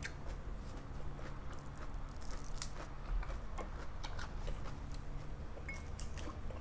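Close-up mouth sounds of someone chewing fried fish and rice eaten by hand: wet chewing with small crunchy clicks and crackles scattered throughout, over a low steady hum.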